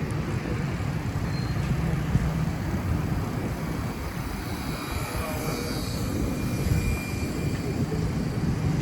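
Steady low rumble of street noise heard from a moving bicycle: wind on the microphone and traffic going by.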